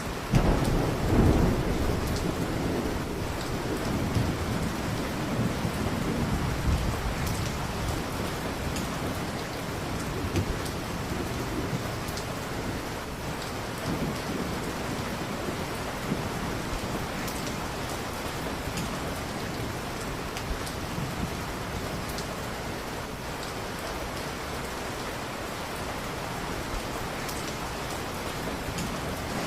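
Steady heavy rain with a low rumble of thunder in the first few seconds that slowly dies away, and scattered small ticks over the rain.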